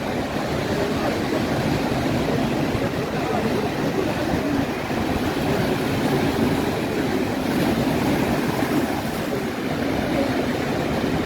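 Steady rushing outdoor noise of wind and sea surf, with a fluctuating low rumble.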